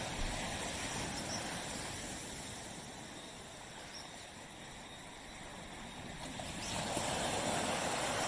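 Waves washing on a tropical beach: the surf ebbs to its quietest midway, then swells again as the next wave comes in about seven seconds in.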